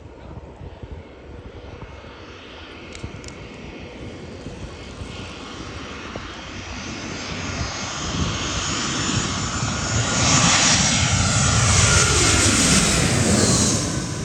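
Airliner's jet engines passing low overhead on approach to land. The noise swells steadily for about ten seconds, is loudest near the end, and falls in pitch as the plane goes by.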